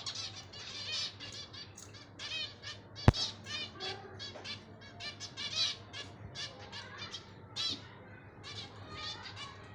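Green Indian ringneck parakeet calling in rapid, repeated short high chirps and squawks. A single sharp click about three seconds in is the loudest moment.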